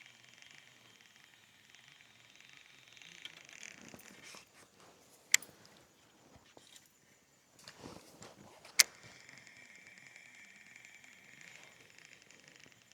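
Fishing tackle being worked: faint mechanical whirring and ticking from a fishing reel being cranked, with two sharp clicks about five and nine seconds in.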